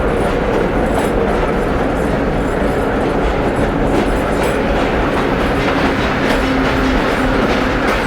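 Vintage 1930s R1-9 'Arnines' subway train running, heard from on board as a steady loud rumble with a faint hum and light clicks of the wheels over the rail joints.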